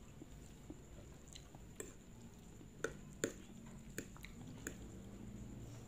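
Soft closed-mouth chewing of a mouthful of chicken noodles, with a few scattered wet clicks and smacks over a faint low hum.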